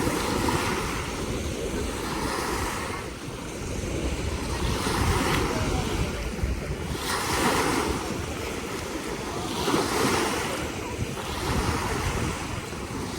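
Small lake waves washing in, swelling about every two to three seconds, with wind rumbling on the microphone.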